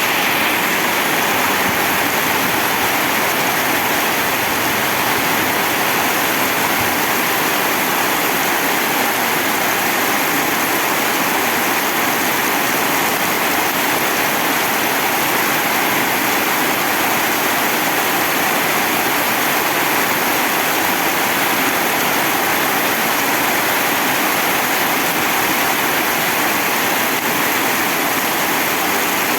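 Heavy rain falling, a steady, dense hiss that does not let up.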